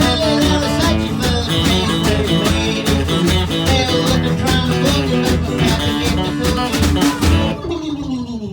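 Country band playing an instrumental passage with guitars and drums on a steady beat. Near the end the high sounds drop away and a note slides downward as the playing winds down.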